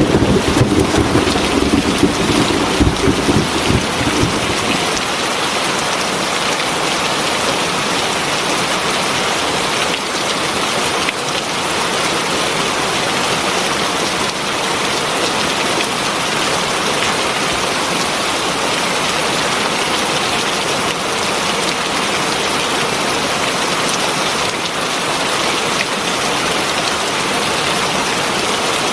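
Heavy rain pouring steadily, with the tail of a low thunder rumble that fades out over the first few seconds.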